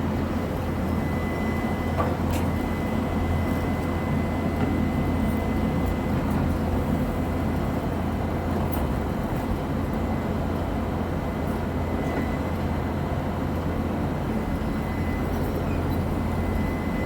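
HDL-260 anchor drilling rig running steadily: a constant low engine hum with a thin, steady high whine above it and a couple of faint clicks, about two seconds in and again near nine seconds.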